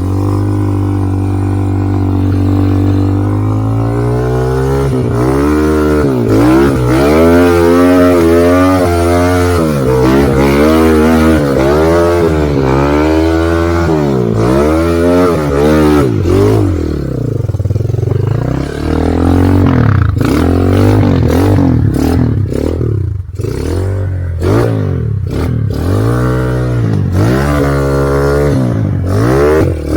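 Motorcycle engine revved up and down over and over, about once a second, with a steadier, lower-running stretch midway before the revving picks up again near the end.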